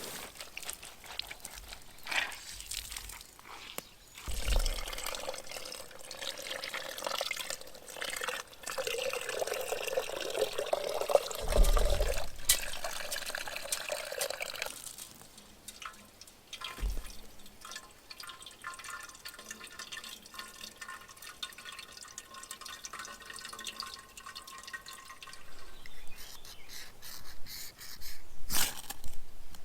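Water pouring and trickling, with a few separate knocks.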